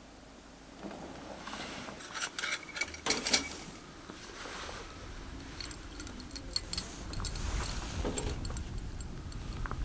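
Camping gear being handled, with light metallic clinks and clicks in two clusters over rustling.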